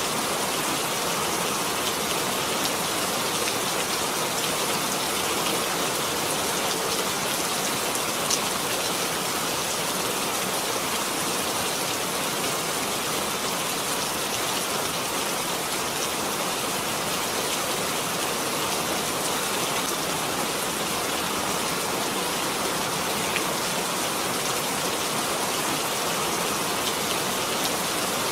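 Steady rainfall, an even hiss of drops on surfaces with a few separate drips standing out now and then.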